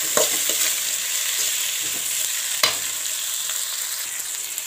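Onions, curry leaves and freshly added tomato pieces sizzling in hot oil in a metal kadai, stirred with a steel ladle that scrapes and clicks against the pan. One sharper knock of the ladle about two and a half seconds in.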